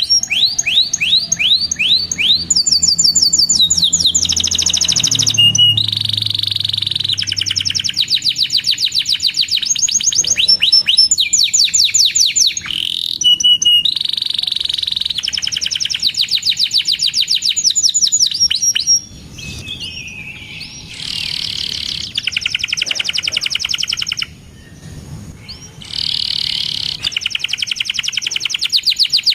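Domestic canary singing a long, continuous song of rapid trills and repeated chirping notes, switching between fast rolls at different pitches, with two brief lulls late on.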